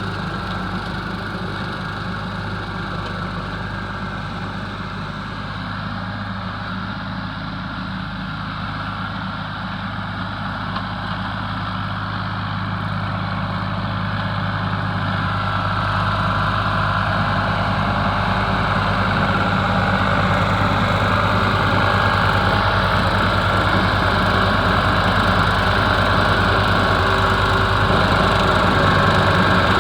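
Ford 4000 tractor's three-cylinder diesel engine running steadily while driving a seven-foot bush hog (rotary cutter), growing louder about halfway through.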